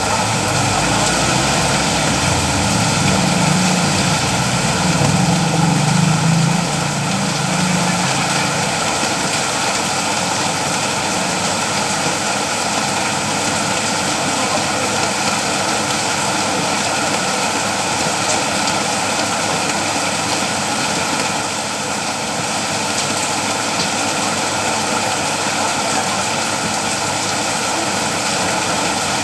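Steady, heavy rain falling. A low rumble, like a distant engine, sits under it for the first eight seconds or so and then fades.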